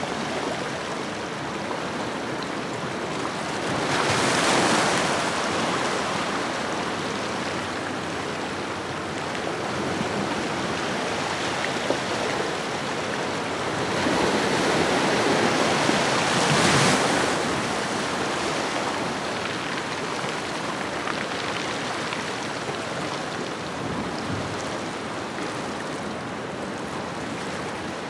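Ocean waves washing on a shoreline: a steady surf hiss with two larger waves swelling and breaking, one about four seconds in and a longer one around the middle.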